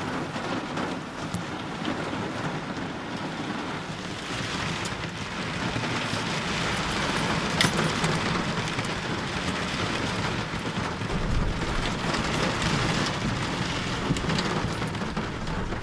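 Heavy rain falling steadily in a dense hiss, with a few sharper drips and taps. A low rumble joins it about two-thirds of the way through.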